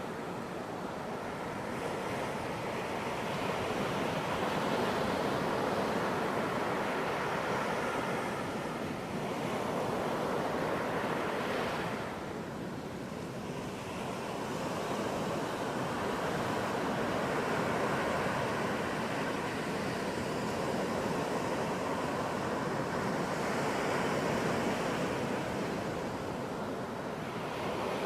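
Ocean surf washing onto a beach: a steady rush of breaking waves that swells and eases slowly, dipping about twelve seconds in and again near the end.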